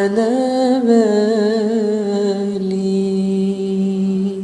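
A man singing a long drawn-out note on a vowel without words, wavering up and down at first, then held steady on one pitch from a little past halfway.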